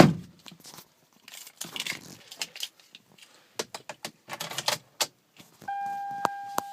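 A thump at the start, then car keys jangling and clicking while the key is worked into the ignition of a 2003 Toyota Camry. About a second before the end a steady high electronic warning tone comes on as the key is turned, with a couple of clicks over it.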